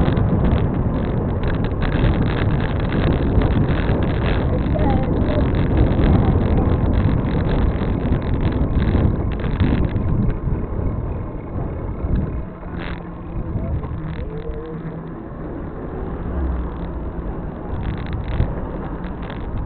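Wind rushing on the microphone and road traffic while cycling along a road. The noise eases a little past halfway, where a steady low hum comes in.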